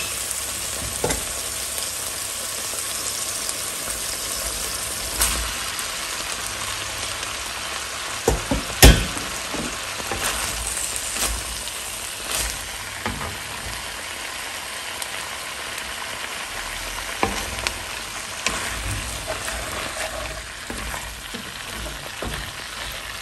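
Diced vegetables and rehydrated textured soy sizzling steadily in hot oil in a glazed clay cazuela, stirred with a wooden spoon that scrapes and clicks against the pot. One sharp knock stands out about nine seconds in.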